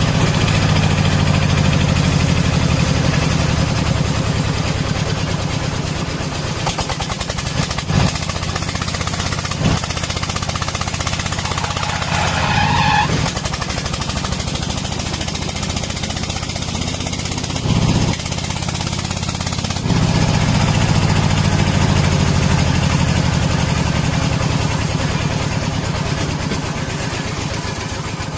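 Công nông farm truck's single-cylinder diesel engine chugging with a fast, even beat, louder at the start and again about two-thirds of the way through. A few sharp knocks come through it.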